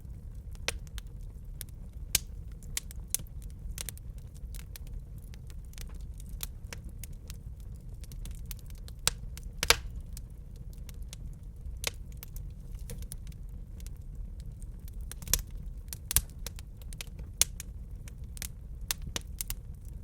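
Wood fire crackling in a fireplace: irregular sharp pops and snaps over a steady low rumble of burning, with the loudest pop a little before halfway through.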